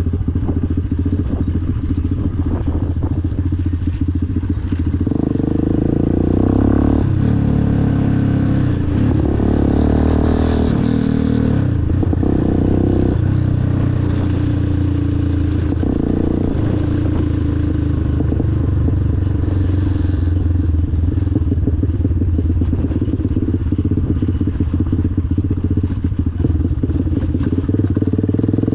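Motorcycle engine running while riding, with its engine note shifting up and down between about five and thirteen seconds in as the throttle changes.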